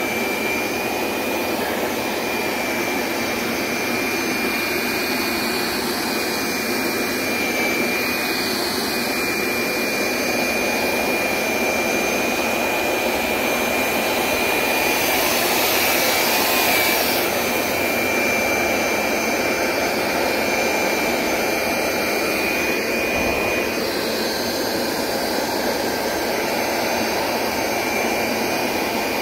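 Hoover SmartWash Pet Complete automatic carpet cleaner running steadily, its suction motor giving a constant rushing sound with a high whine over it as it washes and extracts a dirty rug. The sound grows briefly brighter and louder about halfway through.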